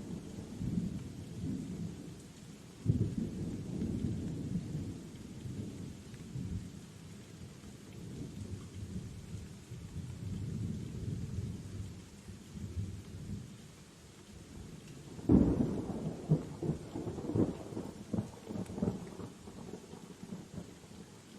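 Thunderstorm: steady rain with rolling thunder. A sudden clap of thunder comes about three seconds in, and a louder, crackling one about fifteen seconds in, each rumbling on for several seconds.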